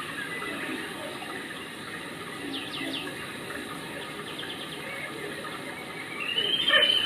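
Steady rush of running water, with a few short high chirps about halfway through and a louder high call near the end.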